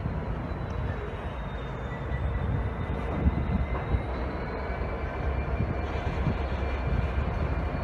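Train running past with a steady low rumble, a faint high whine held throughout and a couple of light knocks a little after three seconds in and again about four seconds in.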